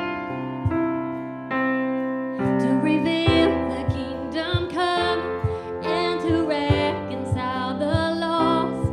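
Live worship band music: sustained keyboard or piano chords with a steady drum beat, and a voice singing over them from about two and a half seconds in.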